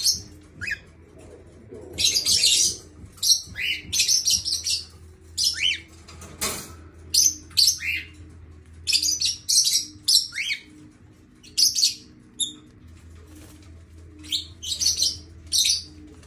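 Cockatiel chirping: a string of short, sharp, high calls every half second or so, several of them sweeping quickly down in pitch.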